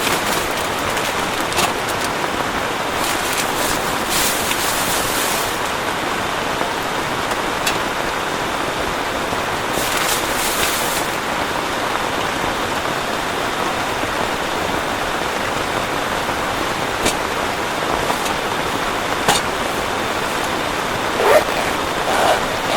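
Heavy rain falling steadily, a dense even hiss with scattered sharp taps of drops striking close by, and a couple of brief louder knocks near the end.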